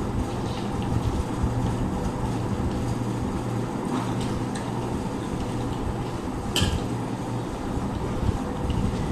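A steady low machine hum, with a few short clicks and smacks of people eating rice and fish curry by hand, the sharpest about two-thirds of the way in.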